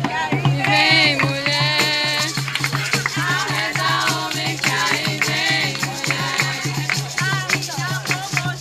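Lively percussion music: a low drum beating a fast steady rhythm, about five strokes a second, under rattling shakers, with several voices over it.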